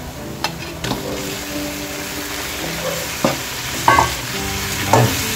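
Chopped onion and garlic sizzling in oil in a nonstick wok, with a few sharp knocks of the spoon and of lightly browned chicken pieces going back into the pan. The sizzle grows louder near the end.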